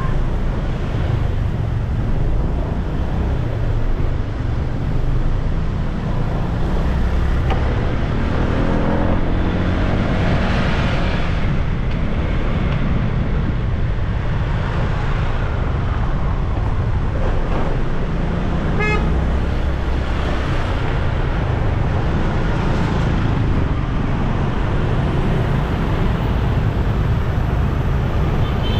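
Motorbike ride through city traffic: a steady low rumble of engines and road noise, with an engine note rising about eight to ten seconds in and a short vehicle horn toot about two-thirds of the way through.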